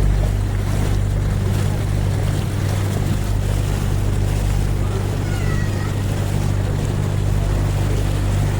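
Canal tour boat's motor running steadily with a low hum, over the wash of water along the hull. A faint short squeak sounds about five seconds in.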